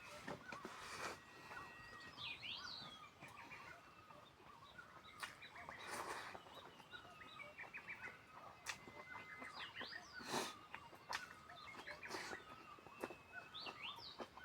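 Birds chirping and calling in short, high, rising and falling notes, with scattered short clicks and smacks every second or two.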